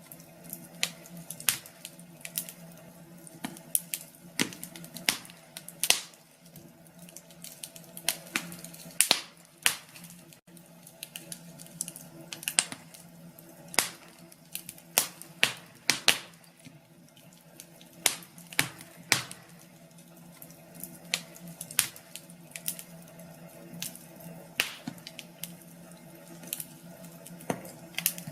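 Wood fire crackling in a fireplace: irregular sharp pops and snaps, sometimes several a second, over a soft hiss and a faint low steady hum.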